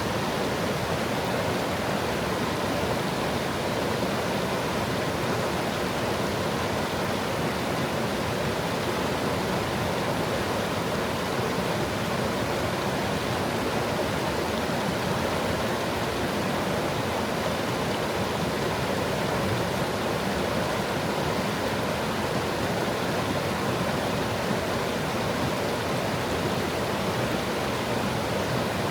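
Small stream flowing over stones, a steady even babbling rush of water.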